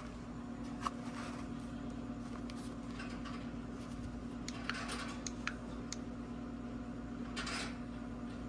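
Small clicks, taps and rustles of plastic headlight parts being handled and worked loose, scattered over a steady low hum, with a longer rustle about seven and a half seconds in.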